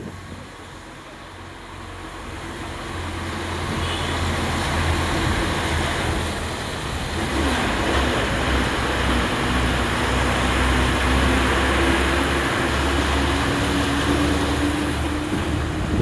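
A motor vehicle's engine running with road and wind noise. The engine tone dips about halfway in, then rises slowly and steadily.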